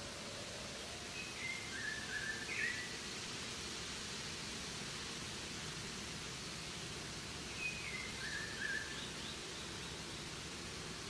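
Steady background hiss, with a bird's short chirping call twice: about a second and a half in, and again about seven and a half seconds in.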